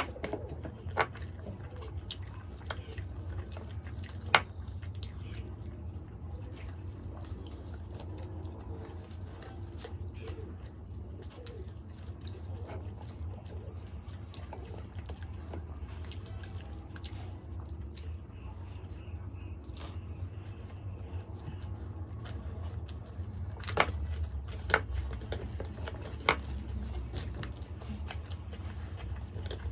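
Close-miked eating sounds: soft chewing and wet mouth noises as two people eat buttered methi paratha, with a few sharp clicks and taps, about a second in, around four seconds and three near the end. A steady low hum sits underneath.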